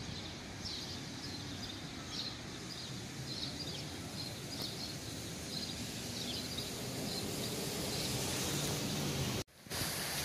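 Small birds chirping, short high chirps about once or twice a second, over a steady outdoor hiss. The hiss grows louder in the second half, and the sound cuts out for an instant near the end.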